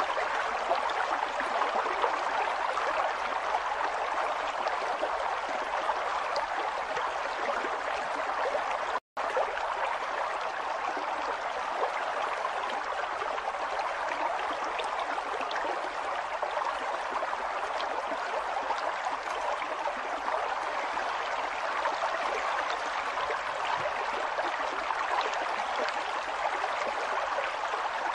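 River water flowing steadily over rocks, an even rushing with small splashes, broken by a momentary dropout about nine seconds in.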